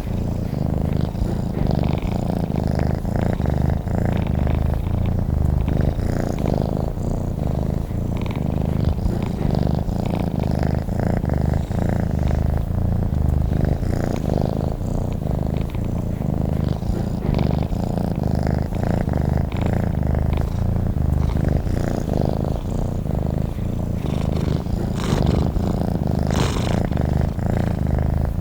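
Domestic cat purring steadily, a continuous low, finely pulsing sound, with a couple of faint brief higher sounds near the end.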